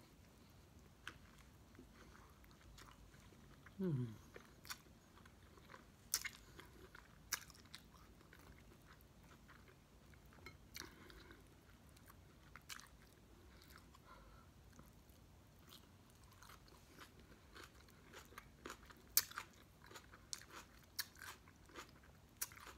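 A person chewing a chili cheese coney dog close to the microphone: faint, scattered wet clicks and smacks of the mouth, with a short falling 'mm' about four seconds in and more frequent clicks toward the end.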